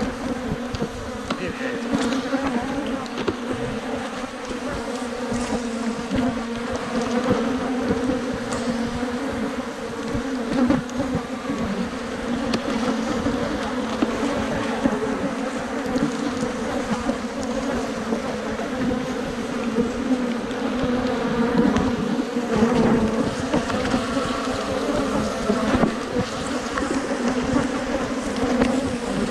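Africanized honey bees buzzing loudly in numbers around an opened hive, a steady dense hum with individual bees passing close. The bees are agitated and defensive at the disturbance.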